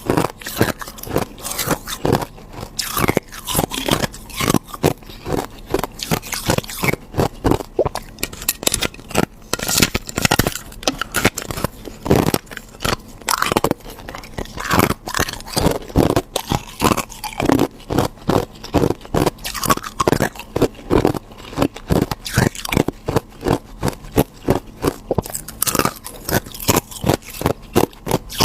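Ice being bitten and chewed close to the microphone: a dense, continuous run of sharp crunches and cracks, several a second.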